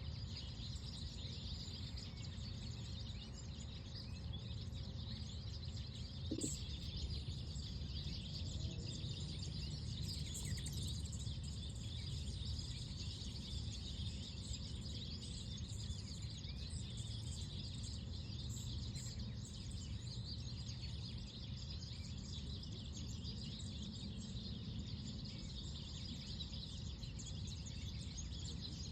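Outdoor park ambience: many small birds chirping over a steady low rumble of wind. A brief louder sound about six seconds in.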